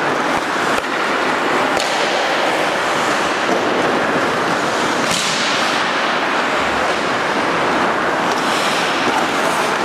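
Ice hockey in play: steady hissing of skate blades scraping the ice, with a few sharp clacks of sticks or puck, one louder scrape-and-clack about halfway through.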